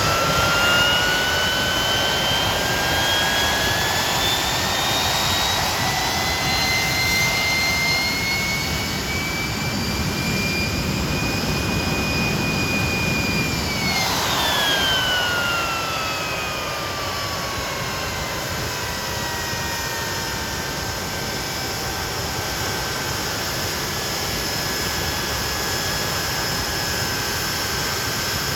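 Nimrod jet engines running: the whine climbs steadily for about thirteen seconds as the engines spool up, then drops sharply about halfway through and winds down as they are throttled back, over a steady rushing roar.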